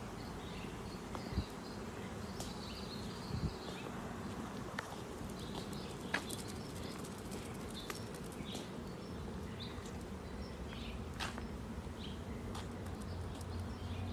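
Outdoor ambience with small birds chirping faintly now and then over a steady background hush, and a few scattered light clicks.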